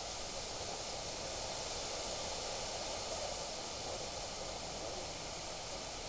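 Steady wind blowing outdoors, an even rushing hiss that holds at one level throughout, with a few faint high ticks.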